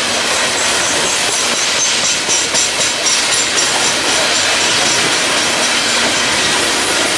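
Railroad cars rolling past at close range: a loud, steady rumble and rattle of steel wheels on the rails. Faint high ringing comes and goes for a few seconds in the first half.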